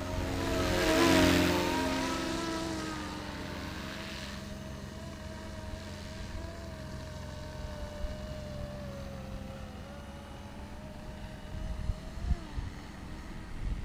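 470-size radio-controlled scale Cobra helicopter in flight: a steady whine from its motor and rotor head, wavering slightly in pitch. It swells loud with a rush of air about a second in as it passes close, then settles back. A few low thumps come near the end.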